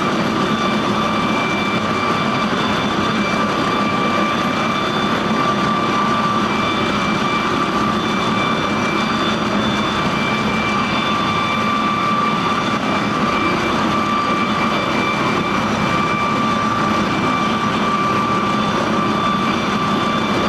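Emergency helicopter's turbine engines running steadily, with a constant high whine over a loud noise.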